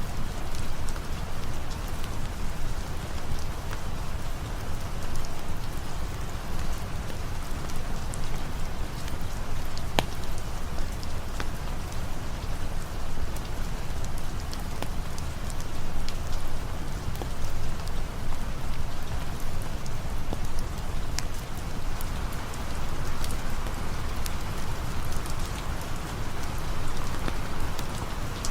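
Steady rain ambience: an even hiss of falling rain over a deep low rumble. It is dotted with scattered sharp pops and crackles from a campfire, with one louder pop about ten seconds in.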